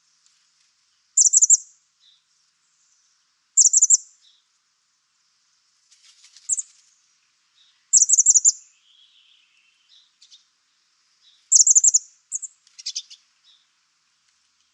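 High-pitched chirping trills from a small animal, each a quick run of four or five notes, repeated about every three to four seconds, with softer single chips in between.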